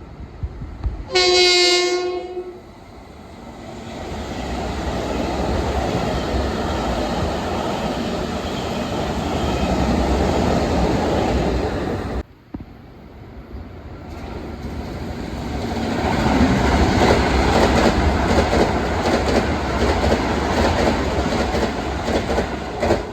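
A Long Island Rail Road train gives one short horn blast about a second in, then passes with a rising rumble of wheels on rail. The sound cuts off abruptly about twelve seconds in, and a train passes again with fast clicking of wheels over rail joints.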